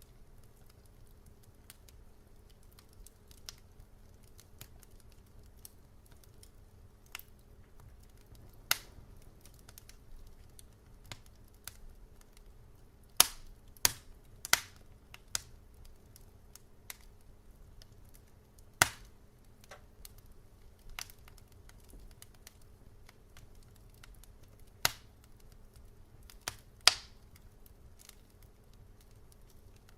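Fireplace wood fire crackling: sharp pops and snaps at irregular intervals, a few louder ones bunched together in the middle, over a faint low hum.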